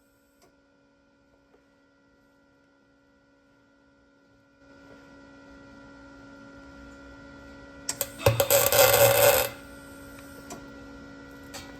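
A MIG welder laying a single tack weld on a muffler's broken seam: the arc starts with a few sharp cracks, then crackles and sizzles steadily for about a second and a half before cutting off. A faint steady hum comes in a few seconds before the weld.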